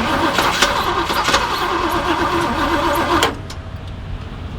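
1978 Jeep engine cranking on its starter without firing, then stopping abruptly about three seconds in. No fuel is reaching the engine, so it turns over but does not catch.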